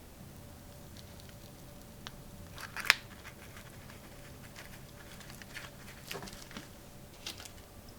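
Small handling sounds: scattered light clicks and rustles, with one sharp click just under three seconds in.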